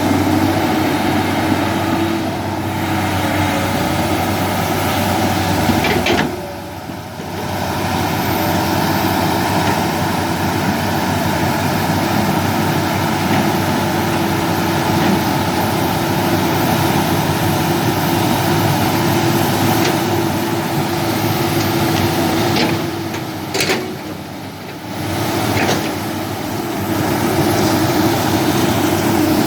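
Heavy diesel earthmoving machinery running steadily, with two brief drops in level.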